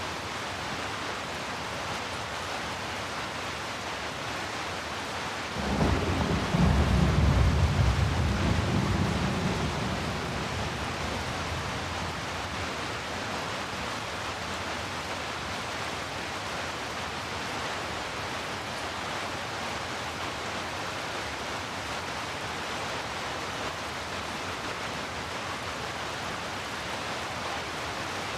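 Steady rain falling, an even hiss, with a low rumble of thunder that sets in suddenly about five seconds in, swells for a few seconds and dies away.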